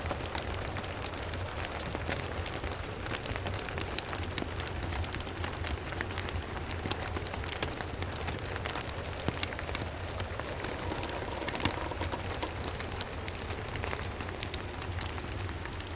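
Steady rain falling, mixed with the crackling of a wood fire in a fireplace: a constant hiss dotted with many small sharp pops, over a low steady rumble.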